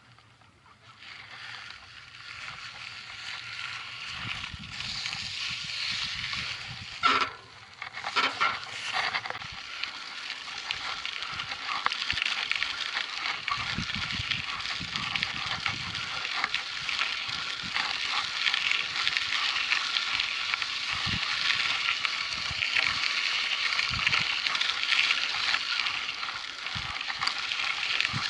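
Mountain bike rolling over a dirt and gravel track: a steady crunching hiss from the tyres that builds over the first few seconds, with a few sharp knocks and rattles about seven to nine seconds in.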